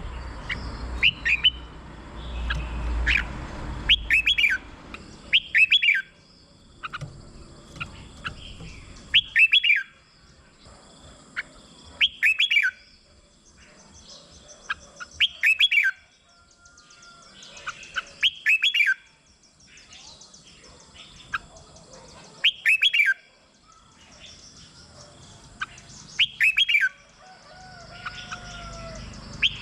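Red-whiskered bulbul singing: short, loud phrases of quick up-and-down sweeping notes, repeated about every three seconds.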